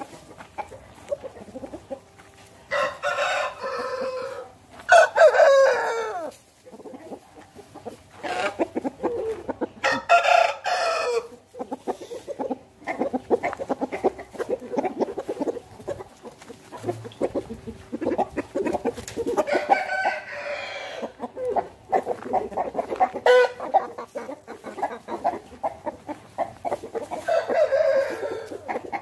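Aseel roosters crowing several times, with chickens clucking all through.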